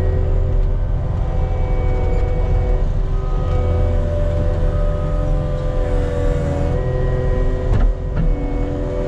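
Diesel engine of compact earthmoving equipment running steadily, with a hydraulic whine whose pitch steps up and down as the machine works, and a short knock about eight seconds in.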